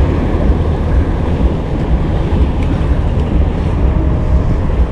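Wind buffeting the microphone on a small boat, a continuous low rumbling noise that rises and falls unevenly.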